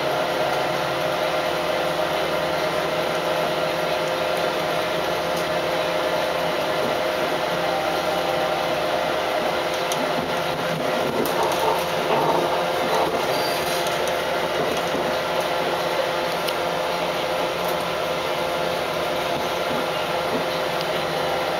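Adelaide Metro 3100-class diesel railcar running along the line, heard from inside: a steady whirring running noise with a constant hum, and a few short higher tones about halfway through.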